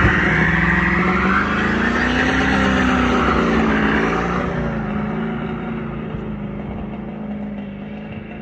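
1984 Oldsmobile Cutlass Supreme's 350 Vortec V8, breathing through long-tube headers, an X-pipe and Flowmaster mufflers, held at high revs in a burnout while the rear tyres spin and squeal. The engine note rises and falls in the middle, then fades as the car pulls away.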